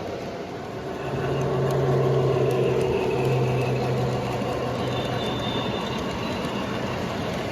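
Model train running on the layout's track: a steady rumble of wheels on rail with a motor hum that swells about a second in, as if passing close, then eases a little.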